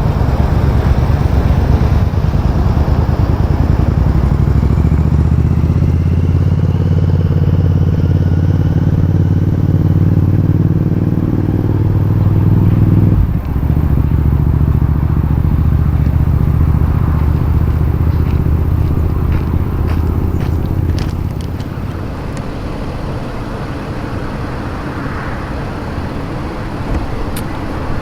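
Diesel locomotive engines of a freight train running with a steady low hum. The engine note shifts abruptly about halfway through and the sound drops off somewhat after about three-quarters of the way, with a few sharp clicks near the end.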